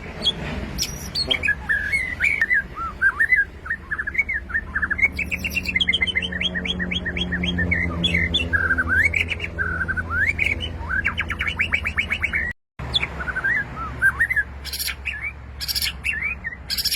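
White-rumped shama (murai batu) singing: a varied run of clear whistled phrases and fast rattling trills, over a steady low hum. The sound cuts out completely for a moment about three-quarters of the way through.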